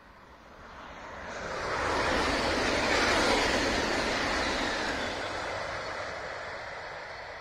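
High-speed electric passenger train passing at speed: a rushing noise that builds over about two seconds, peaks, then fades slowly as the train moves away.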